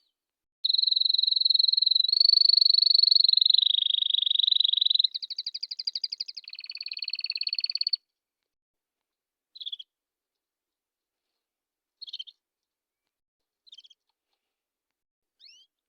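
Domestic canary singing: a long, very fast rolling trill that shifts pitch through several sections for about seven seconds and then stops, followed by four short, separate chirps.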